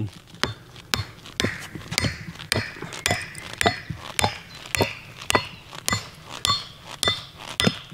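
Steady hammer blows, two to three a second, driving a wooden branch through a welded steel dowel plate to form a 20 mm wooden peg; many strikes carry a short metallic ring.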